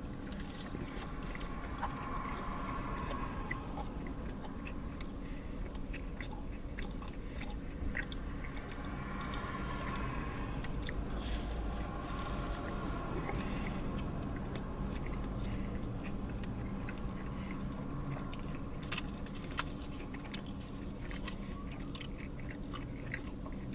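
A person chewing and biting into a tri-tip sandwich, with faint mouth clicks, over a steady low hum.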